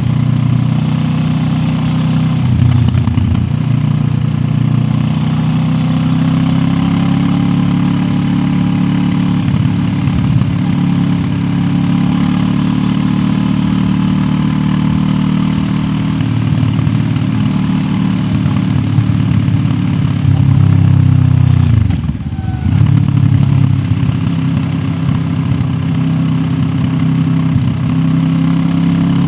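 QJ Motor SRT 700X parallel-twin engine running as the motorcycle rides along, heard from a recorder in the rider's backpack. Its note holds steady but dips briefly near the start and again, more deeply, about three-quarters of the way through, before picking up again.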